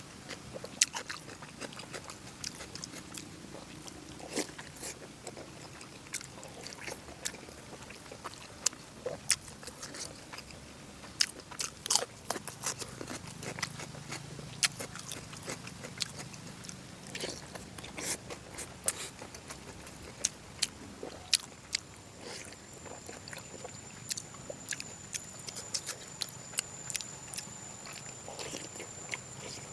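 A person chewing and biting braised pork close to the microphone: irregular wet smacks, clicks and crunches. A faint steady high whine comes in about two-thirds of the way through.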